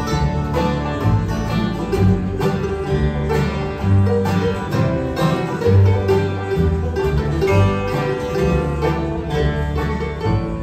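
Live acoustic bluegrass band playing an instrumental break, banjo and guitar picking over a steady bass line.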